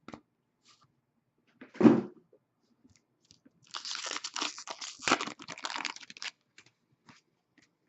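Foil trading-card pack wrapper crinkling and tearing as a pack of hockey cards is opened, a dense crackle lasting about two and a half seconds, preceded by a single short thump about two seconds in.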